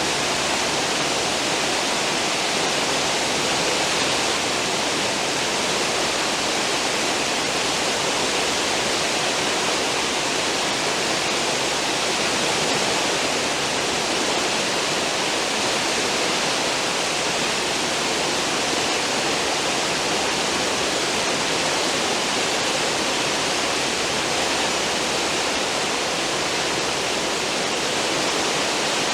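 A cruise ship's wake churning and rushing behind the stern: a steady, unbroken roar of foaming seawater.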